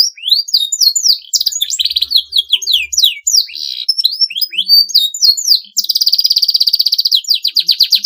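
Domestic canary singing a long, continuous song: rapid rolling trills of quickly repeated notes, broken up by fast, varied chirps and sweeping whistles, with another fast trill taking over about six seconds in.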